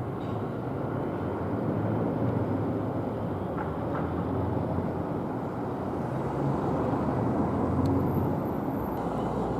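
Electric multiple-unit passenger train running on the line, a steady rumble of wheels and motors.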